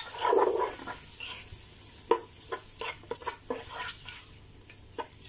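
Diced tomatoes frying in hot oil in a pot, sizzling lightly while being stirred with a plastic spoon. The spoon scrapes and taps against the pot, loudest in the first second, with a run of sharp taps from about two to four seconds in.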